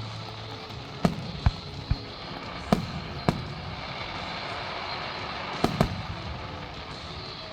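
Fireworks going off: about seven sharp bangs at irregular intervals, with two in quick succession in the later part, over steady background noise.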